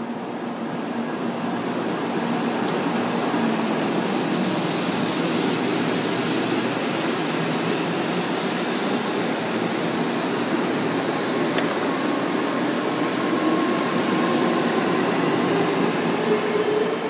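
N700 series Shinkansen train running past the platform, a steady rush of wheels and air. A motor whine climbs in pitch over the last few seconds as the train gathers speed.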